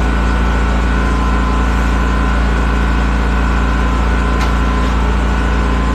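Small gas engine running steadily at constant speed, with compressed air hissing into a truck tire on a tire changer while the bead has yet to seat. A faint click about four and a half seconds in.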